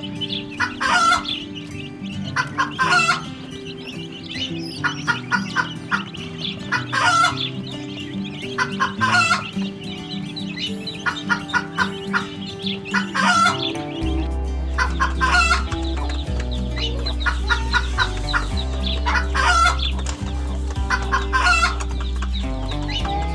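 Chickens clucking over background music. The clucking comes in an even pattern about every two seconds, and a deep bass joins the music about halfway through.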